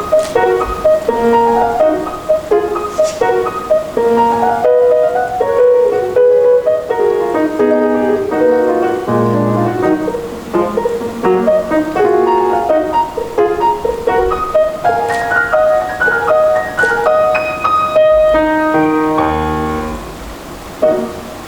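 Solo piano played at a brisk pace, many quick notes over a moving bass. About nineteen seconds in it comes to rest on a low final chord that fades, followed by a short thump just before the end.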